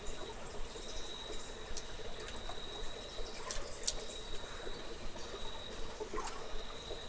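Water dripping and trickling in a cave: scattered drops over a steady wash of running water, with a thin steady high tone throughout.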